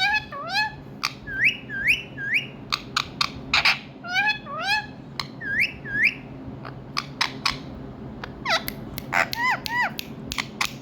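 Indian ringneck parakeet calling: short whistled calls that mostly sweep upward in pitch, coming in twos and threes, with sharp clicks in between.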